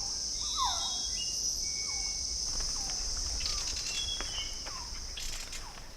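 A steady, high-pitched insect chorus of forest ambience, with a few faint, short bird calls scattered through it.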